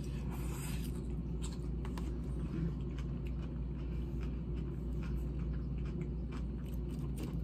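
A person chewing a mouthful of salad close to the microphone: small, irregular crisp crunches and crackles over a steady low hum.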